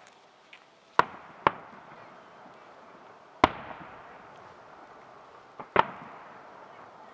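Aerial firework shells bursting: five sharp booms, a pair about a second in, one about three and a half seconds in and a close pair near the end, each trailing off in an echo.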